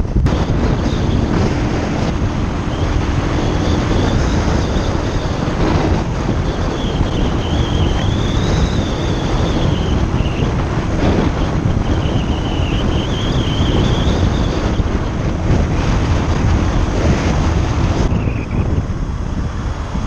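Wind buffeting the microphone of a motorcycle rider's camera at road speed, with the motorcycle's engine running underneath, steady throughout.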